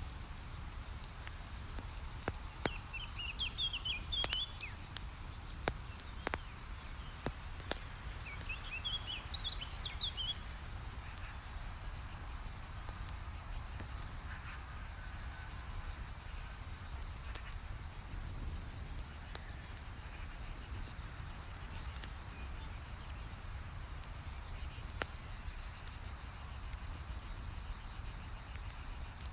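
Campfire crackling, with scattered sharp pops. A small bird twitters in three quick phrases in the first ten seconds, and crickets chirp steadily behind, more noticeable in the second half.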